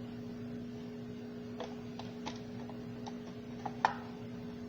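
Light plastic clicks and taps as a replacement Roomba wheel module is handled and pushed into place in the robot vacuum's housing, with a sharper click a little before the end. A steady low electrical hum runs underneath.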